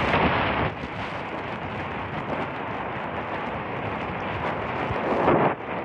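Storm wind and rain from a typhoon, a steady rushing noise buffeting the microphone. It is louder for the first second or so and again in a gust near the end.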